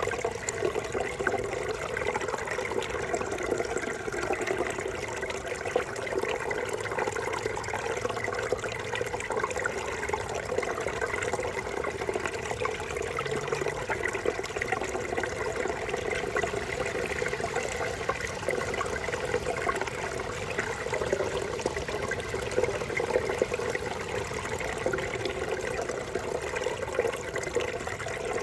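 Small forest brook babbling steadily over rocks, a continuous rushing and gurgling of running water.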